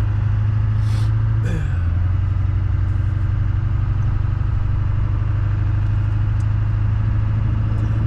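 Chevrolet Silverado's Duramax diesel engine running steadily with a low, even hum, with a couple of brief higher noises a second or so in.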